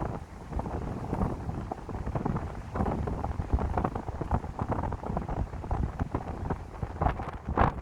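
Gusty wind buffeting the microphone, a rumbling, fluttering rush that rises and falls with the gusts.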